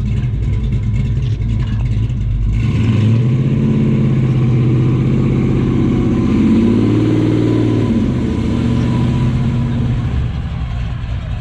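Car engine running loudly. About two and a half seconds in, its note climbs and holds, then drops back near eight seconds.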